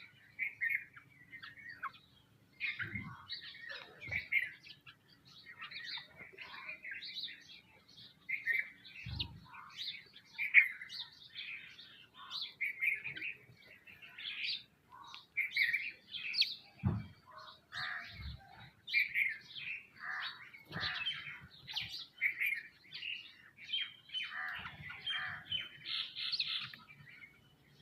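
A flock of small birds, sparrows among them, chirping continually in quick overlapping calls, with a few brief low thumps now and then.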